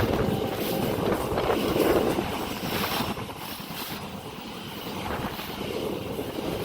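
A passing train's rumble and wheel noise on the track, with wind buffeting the microphone. It eases off about midway and builds again near the end.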